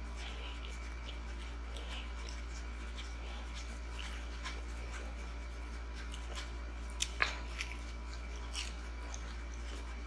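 Chewing and crunching of a fried onion ring, with scattered soft mouth clicks and a couple of sharper crunches about seven seconds in, over a steady low hum.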